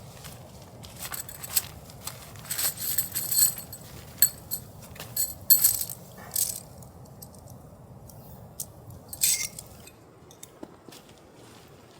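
Small metal objects clinking and jangling as they are handled: an irregular run of short, bright clinks that stops near the end.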